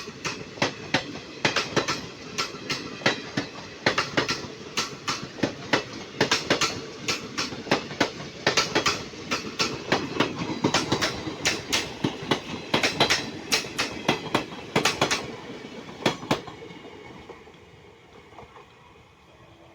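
Indian Railways train passing, its wheels clacking over the rail joints in quick groups of clicks over a steady rumble. The clacking stops about sixteen seconds in, and the rumble then fades away.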